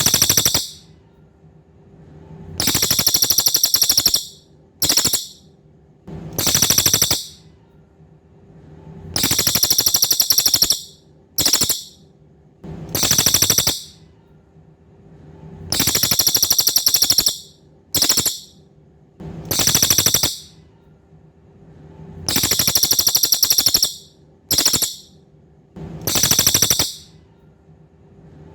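Cililin songbird singing, repeating high rapid buzzy trills, some brief and some about a second and a half long, with pauses of one to two seconds between them. A faint steady low hum runs underneath.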